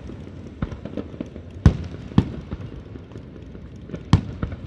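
Aerial firework shells bursting: a string of sharp booms, the loudest about a second and a half in, just after two seconds and about four seconds in, with smaller pops between.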